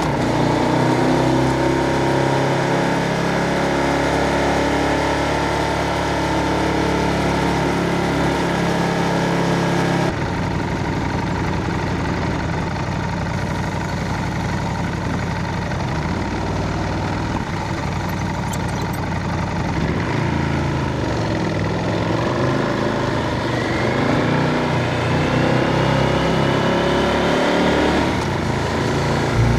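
Ducati Scrambler 1100's air-cooled L-twin engine running, with a tone rising over the last few seconds.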